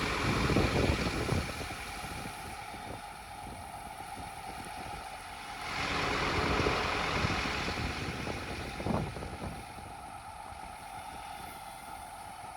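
Scania P270 truck's diesel engine idling steadily, with wind buffeting the microphone in gusts about a second in and again around six seconds in.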